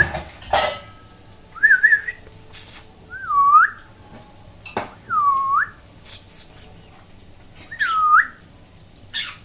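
Four smooth whistled notes, each swooping down and back up, alternating with short, sharp, high chirps from a green-cheeked conure.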